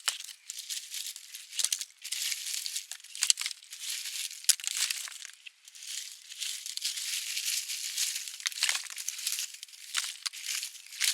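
Irregular rustling and crinkling with several sharp cracks, like dry material being handled or torn.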